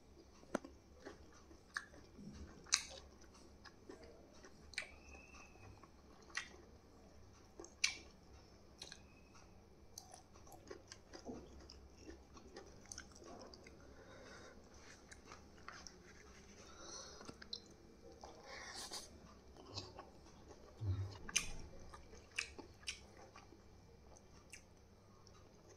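Close-up eating sounds: chewing and biting, with short sharp clicks scattered every second or two.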